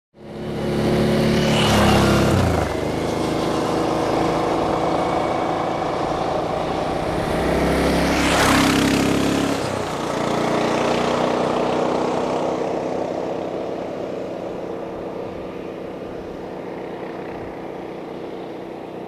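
Two motorcycles pass close by one after the other, about two seconds and eight seconds in, each engine note rising to a peak and dropping in pitch as it goes past. Engine noise then carries on steadily and fades slowly near the end.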